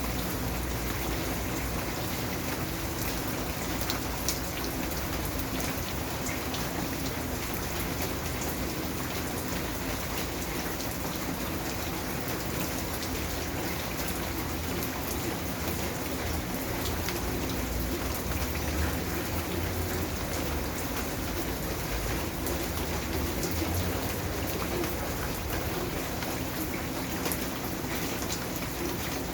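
Steady rain falling, with many individual drops pattering on a hard surface.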